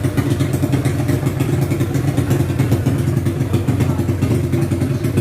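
Yamaha Mio scooter engine, bored out to 350cc with a four-valve head, idling steadily with a rapid, even exhaust beat and no revving.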